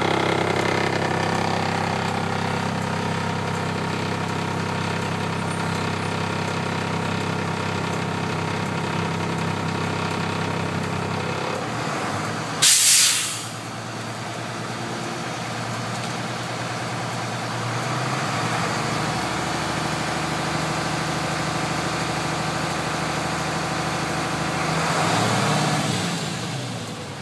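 International DT466 inline-six diesel idling steadily, with a short, loud hiss of released air about halfway through, typical of an air brake. Near the end the engine is briefly revved up and drops back to idle.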